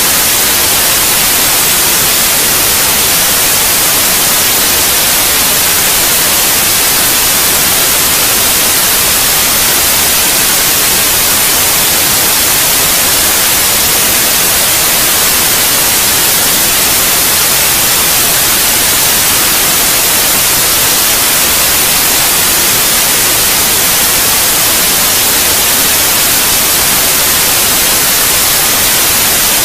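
Steady white noise: an even, unchanging hiss, brightest in the treble, at constant loudness.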